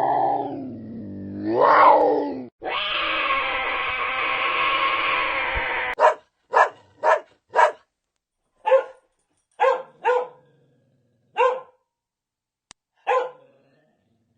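Dog barking: about ten short, separate barks with pauses between them in the second half. Before that come a few seconds of drawn-out, wavering animal calls and then a steady harsh sound lasting about three seconds.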